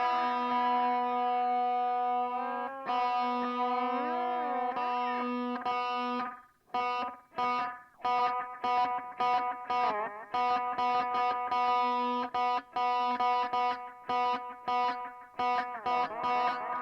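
Electric guitar played through a Donner Yellow Fall delay pedal: held notes with string bends for the first six seconds or so, then short, choppy repeated notes to the end.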